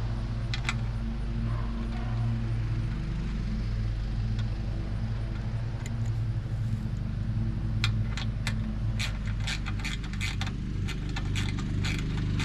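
Mini skid steer's small engine running steadily, with a quick run of metallic clicks and rattles starting about eight seconds in.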